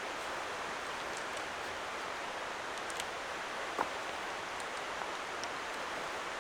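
Steady rush of flowing river water, with a single brief tick about four seconds in.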